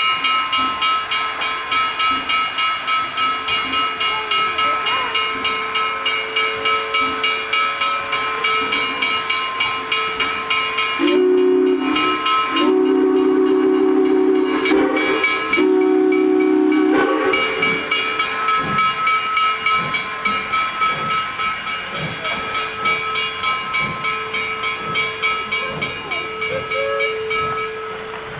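Steam locomotive 734, a 2-8-0, pulling away: its exhaust chuffs about twice a second over a steady steam hiss. In the middle it sounds three blasts on its steam whistle, and the chuffing fades slightly near the end.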